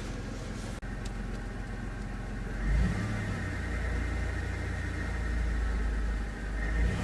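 1993 Chrysler Town & Country minivan's engine running rough after a cold start, then revved about three seconds in and held up for a few seconds before easing back. The owner takes the sound for an exhaust leak.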